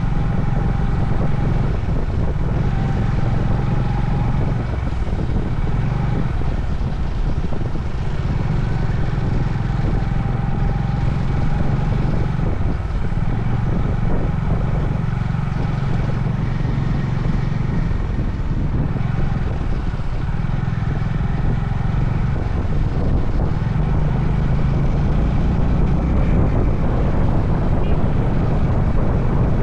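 Honda CB350 Highness's air-cooled single-cylinder engine running under way, its note easing off briefly a few times as the throttle is rolled back and on again, with road and wind noise.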